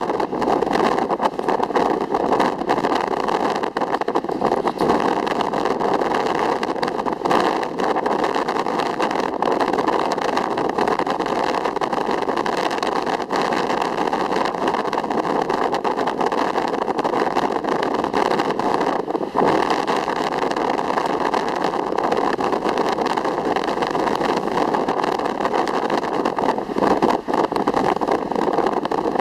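Ocean waves: a steady rush of surf at an even level, without distinct separate breaks.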